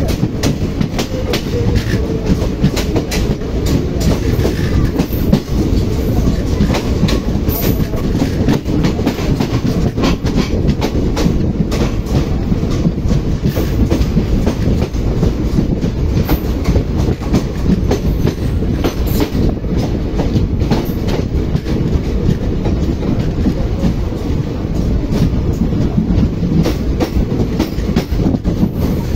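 Covered freight wagons rolling past close alongside: a loud, steady rumble of steel wheels on rail, broken by many irregular clicks and clacks over rail joints.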